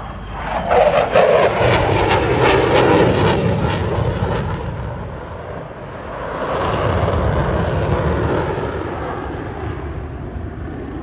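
Twin-engine F/A-18 Hornet fighter jet making a loud display pass: its jet noise surges in about half a second in, falls in pitch with a crackle as it goes by, fades, then swells again a few seconds later as it comes round.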